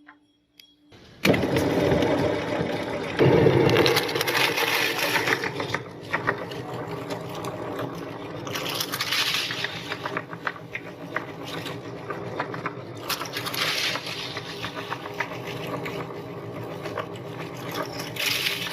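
Electric meat grinder switches on about a second in and runs steadily, with crunching and scraping as food is forced through it. It is loudest for the first few seconds, then settles to a steadier grind.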